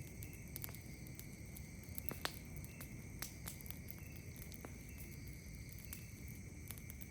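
Wood campfire crackling with scattered sharp pops, the loudest about two seconds in, over a steady high-pitched chorus of night insects.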